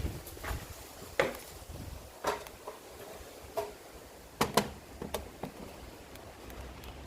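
Irregular light clicks and knocks of hand tools and exhaust parts being handled while fitting exhaust gaskets, about eight in all. The sharpest pair comes about four and a half seconds in.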